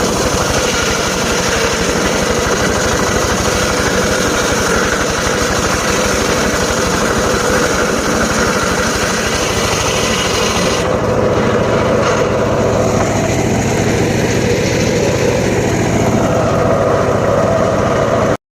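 Engine of a home-built circular saw rig running steadily. About eleven seconds in, its sound changes: the high hiss falls away and a lower hum grows stronger. It cuts off suddenly near the end.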